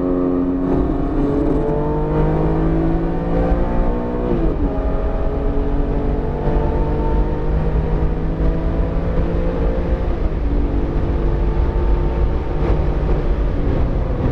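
BMW E46 M3's S54 inline-six engine, freshly rebuilt and still in break-in, pulling hard under throttle. Its pitch climbs, drops sharply for an upshift about four seconds in, climbs again, and dips around ten seconds before rising once more.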